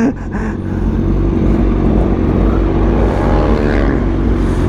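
Honda CBR1000RR-R SP's inline-four engine pulling away and accelerating, the revs climbing in the second half.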